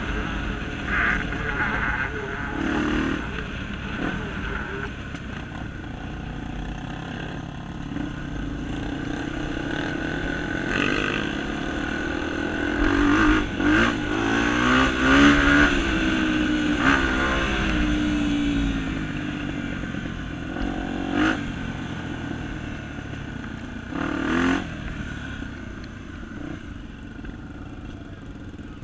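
Honda Tornado 250 single-cylinder trail motorcycle engine running and revving. The revs rise and fall, hardest around the middle, and the engine grows quieter near the end.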